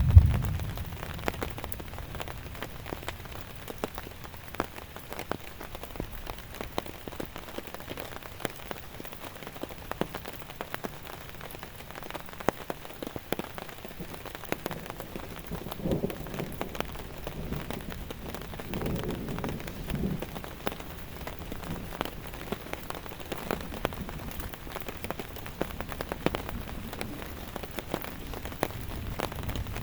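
Steady rain, with many separate drops ticking sharply on a surface close by and a few soft low sounds about halfway through.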